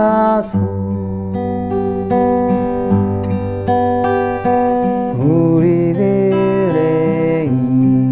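Acoustic guitar fingerpicked in a slow arpeggio pattern, one chord at a time, with a voice singing long, slow notes over it in the second half.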